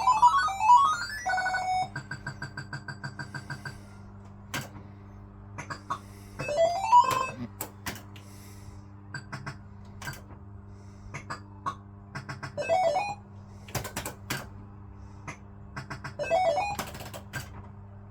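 Barcrest MPU3 fruit machine's electronic sound effects: rising bleeping sweeps and a fast run of beeps, mixed with sharp mechanical clicks from the machine as it plays.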